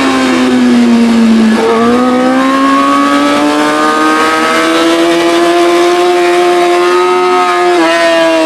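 Yamaha R6's straight-piped inline-four engine heard from on the bike: the revs fall for about a second and a half, jump up with a downshift, then climb slowly and steadily for several seconds before a quick dip of an upshift near the end.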